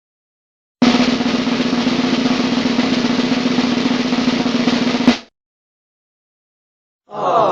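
Drum roll sound effect: a fast, even snare-drum roll that runs for about four seconds and then stops abruptly. Right at the end, a different sound with a falling pitch begins.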